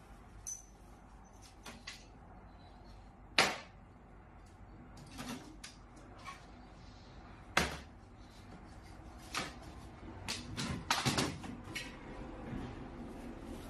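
Scattered sharp knocks and clacks, like hard objects being handled. The loudest come singly about three and a half and seven and a half seconds in, with a quick run of several about eleven seconds in.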